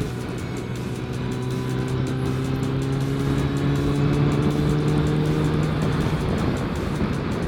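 Motorcycle engine pulling under way, with a brief dip in level at the start, then an engine note climbing slowly as the bike accelerates, over steady wind rush.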